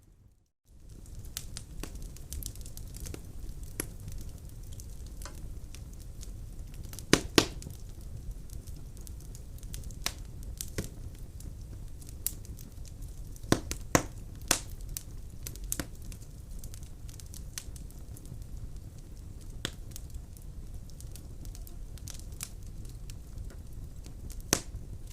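Wood fire burning in a fireplace: a steady low rumble of flames with logs crackling and popping, the loudest pops about seven seconds in, twice around fourteen seconds, and once near the end. A brief silent gap right at the start.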